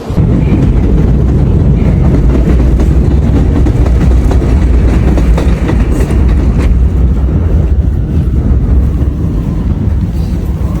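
Loud, steady low rumble of a moving vehicle, with faint rapid clicks over it; it starts suddenly.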